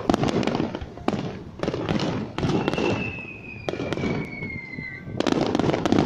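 Aerial firework shells bursting in a rapid-fire barrage, about one sharp burst a second with crackling in between. Through the middle a long whistle slowly falls in pitch.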